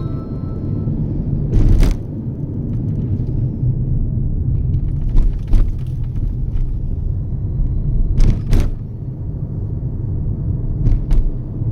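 Steady low road and engine rumble inside a Toyota Yaris cruising on the highway, with a few brief knocks, mostly in pairs, at intervals.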